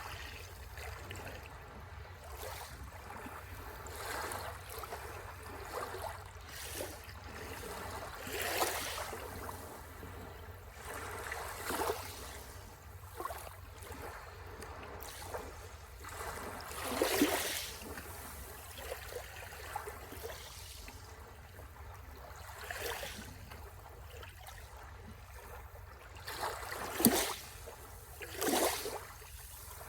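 Small sea waves lapping and splashing at the shore, with a steady low rumble beneath. A few waves splash more loudly, one about halfway through and two close together near the end.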